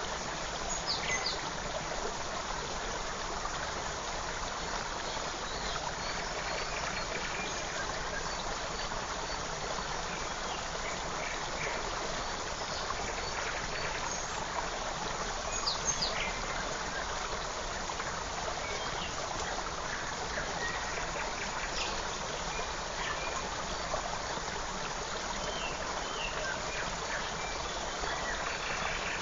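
Forest creek flowing steadily, with short bird chirps scattered over the water sound.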